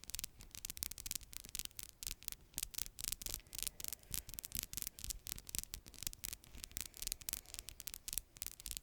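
Manicured fingernails tapping and scratching on a surface: a fast, irregular run of light clicks and scrapes.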